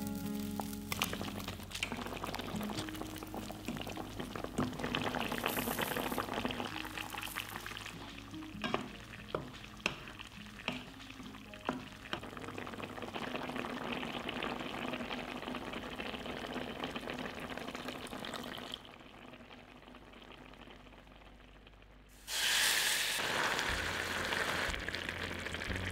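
Baked tofu in green chili sauce sizzling and bubbling in a wok while a spatula stirs, with scattered clicks of the spatula against the pan. About three quarters of the way through it drops quiet, then a sudden loud hiss starts.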